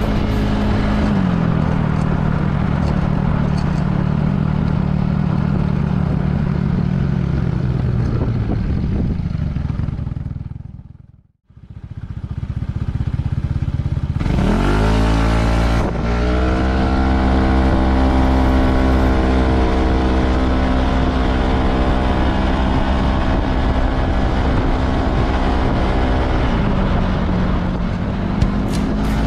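Yamaha Majesty S scooter's single-cylinder engine running under way with road and wind noise, its CVT fitted with Dr. Pulley weight rollers. The sound fades out and back in about eleven seconds in. The engine note then rises as the scooter accelerates, and it holds steady at cruising speed.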